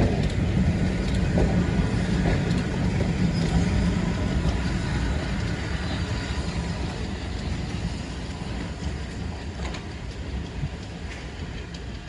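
A train running and moving away: a steady low hum and rumble that fade gradually.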